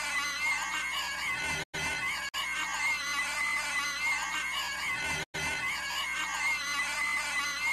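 A cartoon character's shrill, inhuman, squealing scream, looped. It cuts out for an instant and starts over about every three and a half seconds, twice here.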